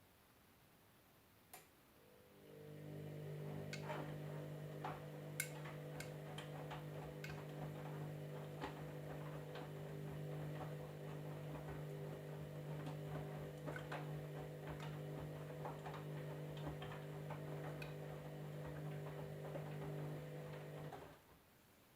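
Candy washing machine running mid-cycle: a steady low motor hum starts about two seconds in and cuts off about a second before the end, with scattered light clicks and taps throughout.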